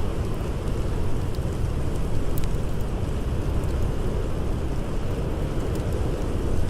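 Blizzard wind blowing steadily with a deep rumble, with a few faint crackles from a campfire.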